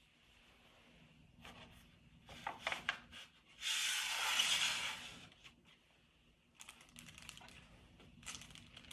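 Packaging of a sterile dressing-change kit being opened and handled. Scattered crinkles and clicks, then a louder tearing rustle of about a second and a half near the middle, then more crinkling.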